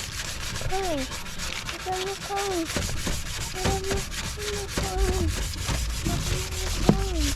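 Sanding a plastic headlight lens: a continuous abrasive rubbing with short squeaks recurring about once a second.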